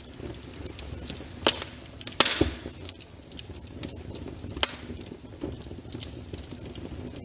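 Wood fire in a fireplace crackling, with irregular sharp pops over a low rumble and a brief hiss about two seconds in.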